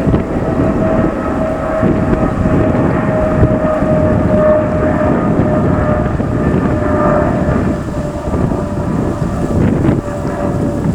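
Jet airliner engines running at high power, heard as a loud, steady rumble with a whine that sinks slowly in pitch, typical of an aircraft on its takeoff run or climbing away.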